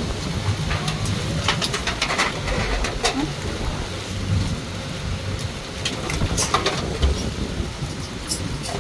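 Heavy rainstorm: a steady hiss of pouring rain with gusty wind rumbling on the microphone, and scattered short clattering knocks.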